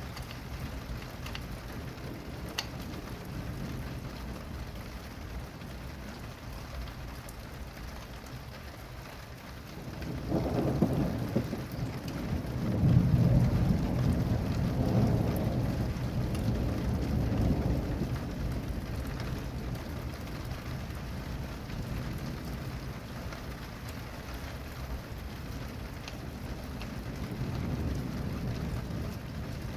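Steady rain falling, with a rolling clap of thunder about a third of the way in that rumbles for several seconds and fades away.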